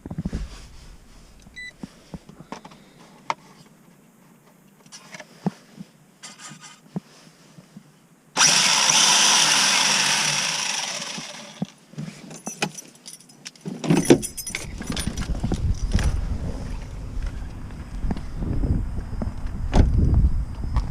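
A WLtoys A969-B short-course RC truck being driven. After faint clicks and rattles, its electric motor whine and tyre noise burst in loud about eight seconds in and fade away over about three seconds. A low rumble with small rattles follows in the second half.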